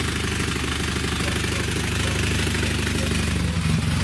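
Dnepr sidecar motorcycle's flat-twin engine running steadily with an even beat.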